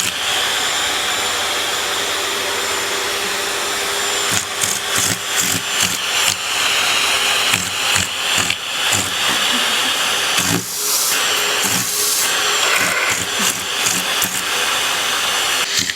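Vacuum cleaner running with a steady whine and hiss. From about four seconds in it is broken by many irregular knocks and bumps.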